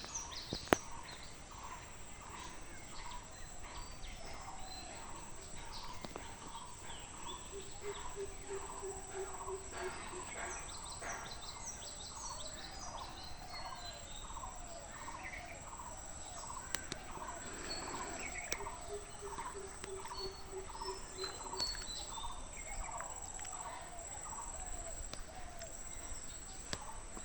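Countryside bird chorus: one bird repeats a short note about twice a second over and over, while other birds chirp higher up and a steady high-pitched whine runs underneath. A single sharp click sounds just under a second in.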